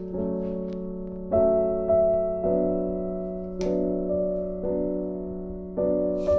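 Background piano music: slow sustained chords, each struck and left to ring, a new one about every second.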